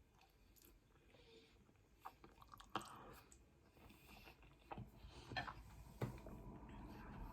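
Faint eating sounds close to the microphone: chewing and mouth clicks starting about two seconds in, after a near-silent start.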